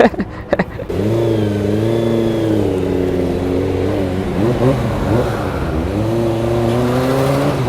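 Motorcycle engine running under way, its note steady at first, dipping about four to five seconds in and rising again, with wind rushing past.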